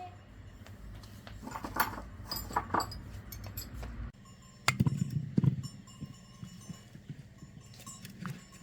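Irregular knocks and metallic clinks, as of tools and metal motor parts being handled on a workbench, over a low hum that cuts off about four seconds in; a cluster of heavier knocks follows just after.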